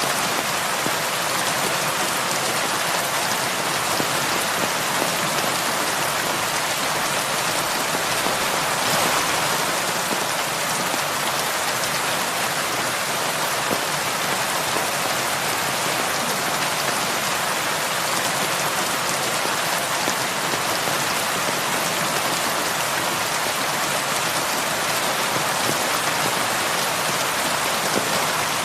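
Heavy rain falling steadily on a roof: a dense, even hiss of many drops.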